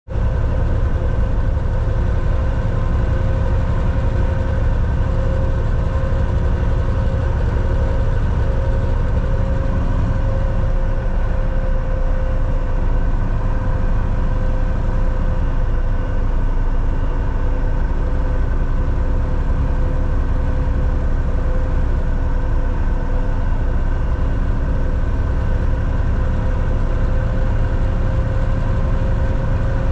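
Volvo VNL 760 semi truck's diesel engine running steadily, heard from inside the cab: a constant low rumble with a steady hum over it.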